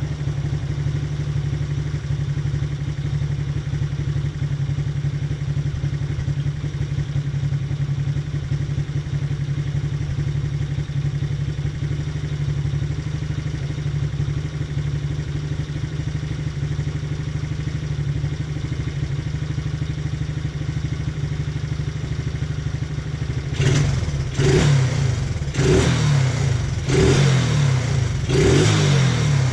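Taotao 125cc ATV's small single-cylinder four-stroke engine idling steadily, then about 23 seconds in blipped up several times in quick succession. The engine had been popping in the exhaust, which the owner traces to a too-lean mixture needing carburettor adjustment.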